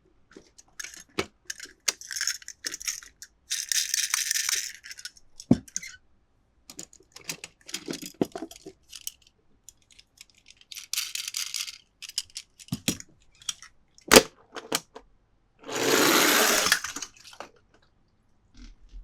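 Toy packaging being handled and opened: rustling, scraping bursts broken by sharp clicks and taps. The loudest click comes about fourteen seconds in, and a longer, fuller rustle follows about two seconds later.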